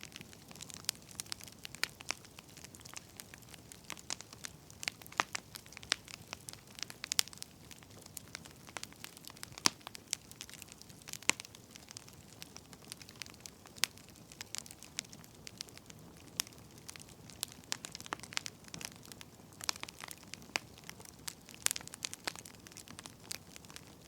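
Firewood burning, crackling and popping in an irregular scatter of sharp snaps over a low steady hiss.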